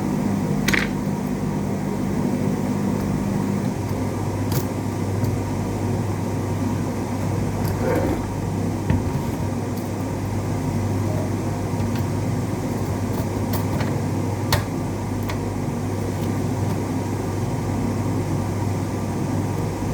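Steady machine hum, like a fan, with a few light clicks; the hum drops to a lower tone about four seconds in.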